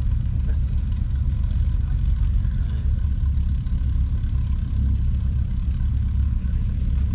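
Vehicle engine running at a steady low idle.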